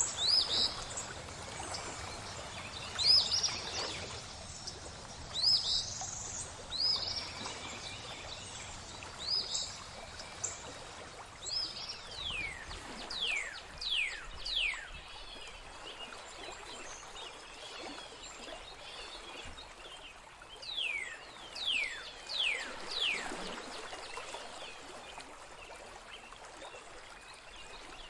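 Flowing water trickling steadily under songbirds. Short rising chirps come in the first few seconds, then two series of quick down-slurred whistles, one about halfway through and one later on.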